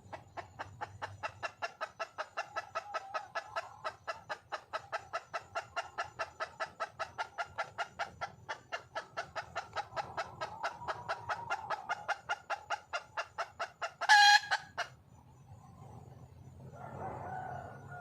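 Red junglefowl hen clucking in a long, rapid, even run of about five clucks a second, the mate-calling of a wild hen, broken about 14 seconds in by one much louder short call, with a softer call near the end.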